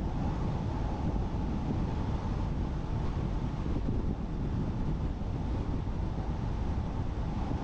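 Steady road and wind noise of a car driving along at an even pace, mostly low rumble with no changes.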